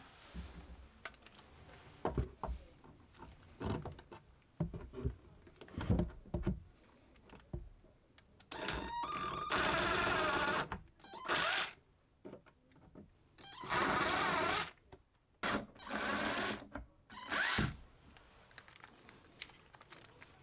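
Knocks and clunks of handling, then an electric drill fitted with a right-angle adapter running in about five short bursts of a second or two each, the motor whirring as it drives in.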